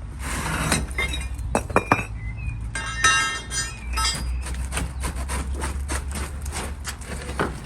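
Hard objects clinking and knocking against each other in a run of sharp hits, with a ringing clatter about three seconds in, over a steady low hum.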